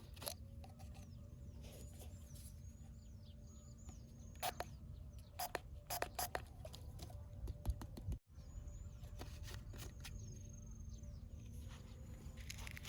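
Faint birds chirping outdoors, repeated short high calls over a low steady hum, with a few sharp clicks or taps in the middle.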